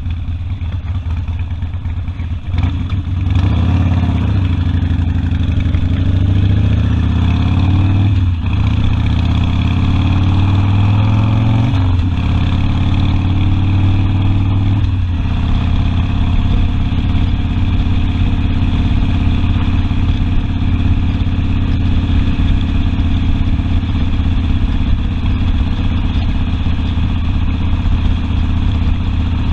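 Harley-Davidson Sportster V-twin engine accelerating through the gears, its pitch rising in three pulls with breaks for gear changes about 8, 12 and 15 seconds in, then running at a steady cruise.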